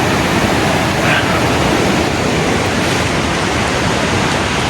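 Steady, loud rushing of fast-flowing water.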